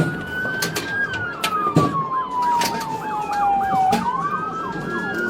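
Police car siren wailing, its pitch rising and falling slowly, with quicker short sweeps repeating over it.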